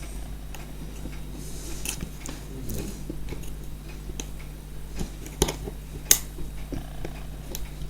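Small clicks and taps of the parts of a gas stove lighter's spark mechanism being handled as its spring and hammer are worked into place; two sharper clicks about five and a half and six seconds in, over a faint steady hum.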